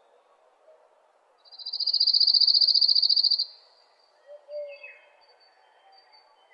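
A bird's rapid, high-pitched trill lasting about two seconds, followed by a few fainter high chirps and a short falling note.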